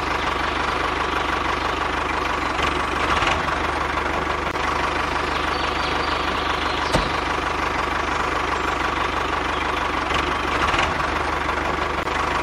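A motor or engine running steadily at a constant pitch, with one sharp click about seven seconds in.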